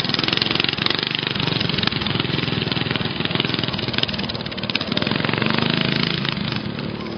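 Racing lawn mowers' small engines running hard, a loud buzzing drone that rises and falls a little as the machines go round the track.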